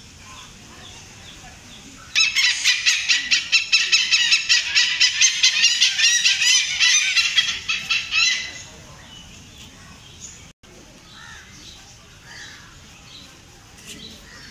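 A bird calling loudly in a rapid run of harsh, pitched notes, about five a second, from about two seconds in for some six seconds, then stopping; fainter chirps follow.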